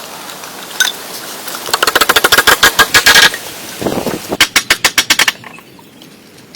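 Rapid runs of sharp mechanical clicks or knocks, about ten a second, in two bursts of a second or so each, then they stop.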